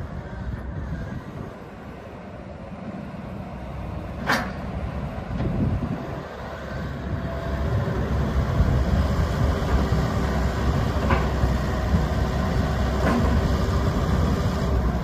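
Komatsu PC138USLC-11 tracked excavator's diesel engine running steadily, growing louder about halfway through. A sharp click about a third of the way in, and two lighter clicks near the end.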